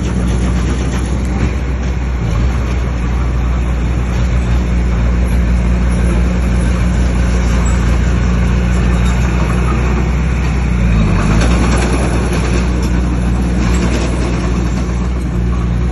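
Bulldozer's diesel engine running steadily, with a brief dip and rise in engine pitch about eleven seconds in.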